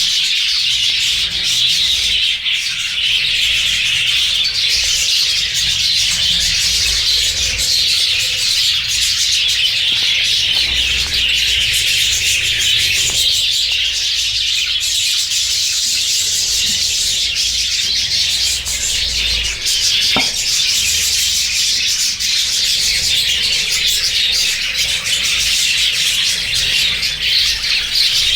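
A flock of budgies chattering and chirping all at once, a dense, steady din of many birds.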